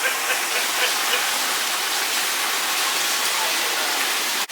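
A steady rush of tropical-storm wind and rain, gusting through trees. The sound cuts off abruptly near the end.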